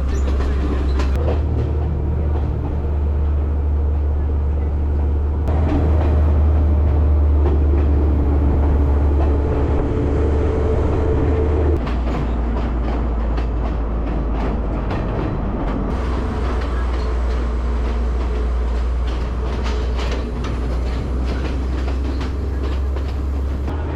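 Diesel passenger train running along the track, heard from on board: a steady low rumble with wheels clicking over the rail joints. The rumble drops a little about twelve seconds in.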